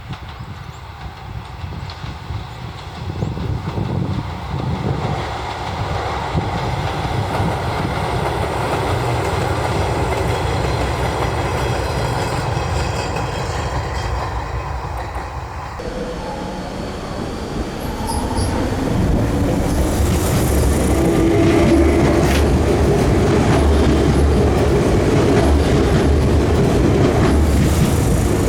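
Izuhakone Railway 5000 series electric train running by, building up to a steady rumble. About 16 s in it cuts to a Tokyu 9000 series electric train passing, louder, with wheels clattering over rail joints and a steady whine.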